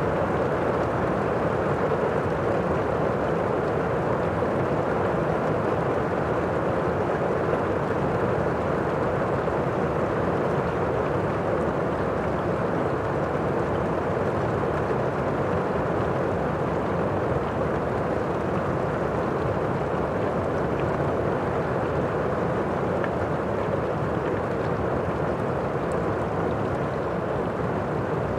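Heavy rain heard from indoors, a steady muffled wash with little high-frequency patter.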